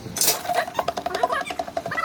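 A dog whimpering in short, high, bending calls, with a scatter of small clicks.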